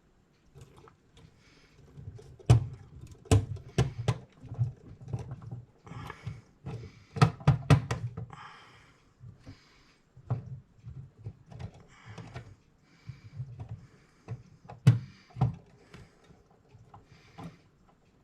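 Metal clock-movement parts and small tools clicking and knocking on a workbench while the wheels are fitted between the movement's plates, with irregular handling and rustling noise between the clicks.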